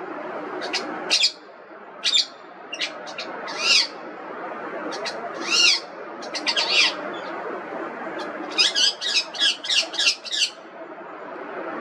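Indian ringneck parrot giving short, sharp calls, one at a time with pauses between, then a quick run of about seven calls near the end, over steady background noise.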